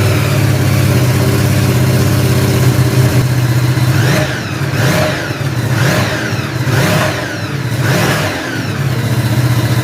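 Ducati Multistrada 950S's 937 cc L-twin engine running through a MIVV exhaust with the catalytic converter removed: idling just after starting, then revved about five times in quick succession from about four seconds in.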